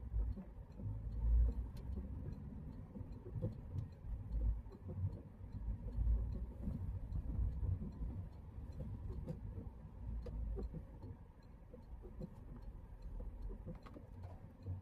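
Low, uneven engine and road rumble inside a Citroën C3's cabin on a rainy drive, with a faint, steady ticking at about three per second.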